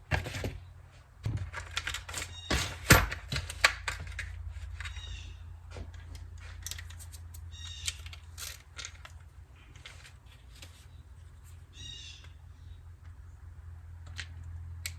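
Small metal tools and carburetor parts clicking, tapping and clattering on a workbench, in irregular bursts that are loudest in the first four seconds, over a steady low hum.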